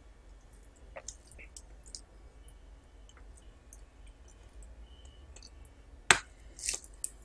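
Close-up eating sounds: scattered small mouth clicks and smacks, with one sharp click about six seconds in followed by a short noisy burst.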